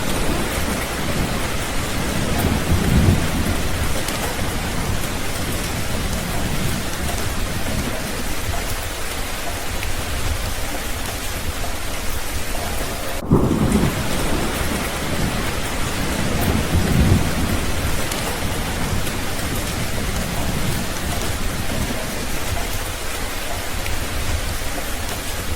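Steady rain falling, with low thunder rumbling up twice, about 3 seconds in and again about 17 seconds in. A brief break in the sound comes about 13 seconds in.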